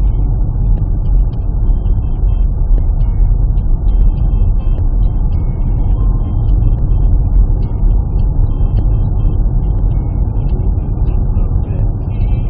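Loud, steady low rumble of a car on the road, with faint radio sounds behind it.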